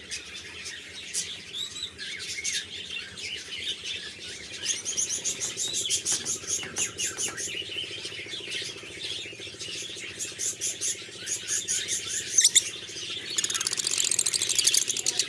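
Lovebirds, small parrots, chirping and chattering in quick high, busy runs that grow denser near the end, over a steady low hum.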